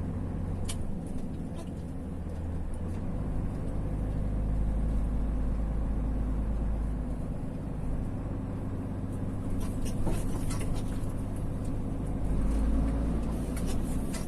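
Vehicle engine running while driving, heard from inside the cabin: a steady low drone that grows louder about three seconds in and swells again near the end.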